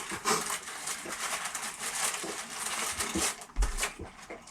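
People eating tacos close to the microphone: crackly chewing and wrapper rustling, made of many small clicks, with a dull thump about three and a half seconds in.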